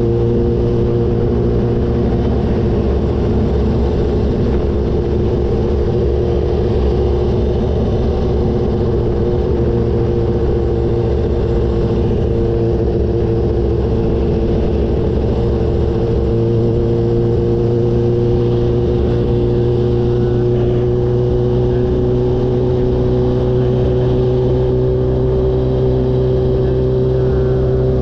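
Kawasaki H2's supercharged inline-four engine running at a steady cruise, its pitch holding nearly constant and creeping up slightly, over a heavy low rumble of wind and road noise.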